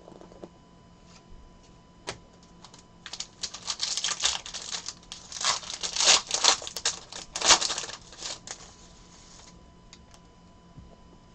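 Trading cards being handled and flipped through, a dense run of quick clicks and rustles from about three to nine seconds in, with a single click about two seconds in.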